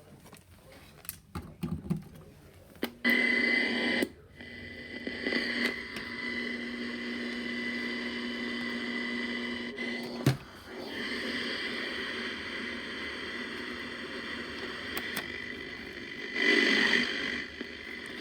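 Radio static: a steady hiss with a constant high whine and a lower hum, cutting in with a click about three seconds in, broken by a short click and dropout about ten seconds in, and swelling louder briefly near the end.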